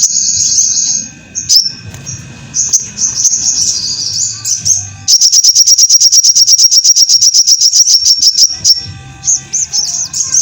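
Little spiderhunter (sogok ontong) singing high-pitched chirps and trills, breaking about halfway into a long run of rapid repeated notes, about ten a second, which ends near the close.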